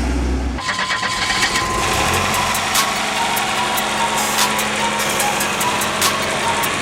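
Buick car engine running steadily at idle, with sharp clicks scattered through it. The engine has food poured into it.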